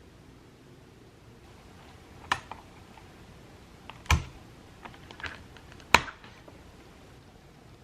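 Mechanical keyboard (QK65 with lubed Gateron Milky Yellow switches) giving a few scattered key clacks: three sharp clicks about two seconds apart, the last the loudest, with fainter clicks between them.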